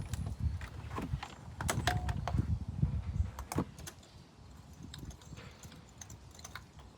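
Scattered clicks, light metallic clinks and low knocks of tools and parts being handled while working in an engine bay, busiest in the first few seconds and fainter after.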